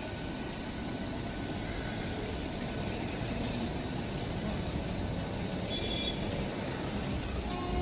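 Train running, a steady rumble and rushing noise that grows slowly louder, with a few faint brief high tones near the end.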